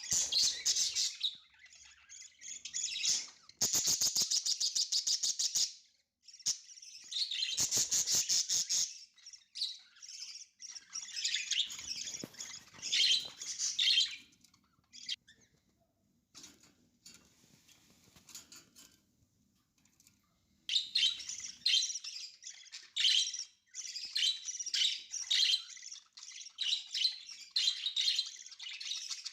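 Budgerigars chirping and chattering in bursts, with rapid trilling runs and a quieter spell in the middle.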